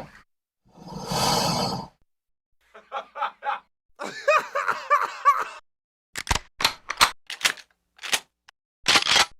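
A string of short, separate sound effects: a breathy swell of noise about a second in, a quick run of five pitched blips, a warbling pitched sound with fast rising and falling glides, then a run of sharp clicks and knocks in the last few seconds.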